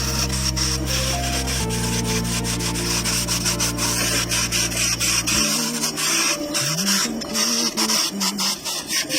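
Rubbing and scraping on a surface during restoration work: a steady rasping hiss dotted with many small clicks. Background music with long held low notes runs underneath, changing chord about one and a half and five and a half seconds in.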